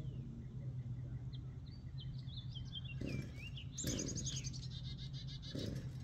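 Songbirds chirping and trilling in short, quick phrases, over a steady low hum.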